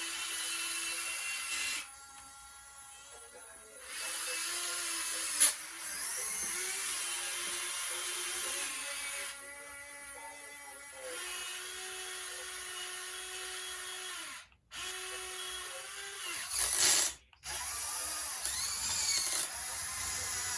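Whine of a radio-controlled excavator's electric hydraulic pump and motors, its pitch stepping up and down as the machine works. The sound drops away twice for a couple of seconds, there is one sharp click about five seconds in, and it cuts out briefly twice in the last third.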